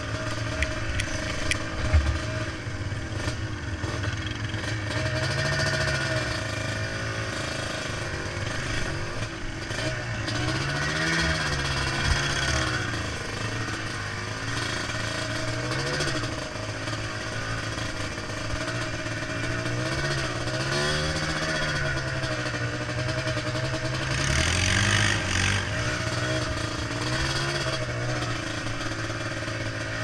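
Yamaha Blaster ATV's single-cylinder two-stroke engine under way, its revs rising and falling again and again, with a few short knocks.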